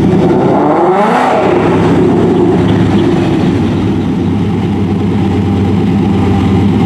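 A loud car engine revs up and falls back about a second in, over the steady low rumble of engines idling.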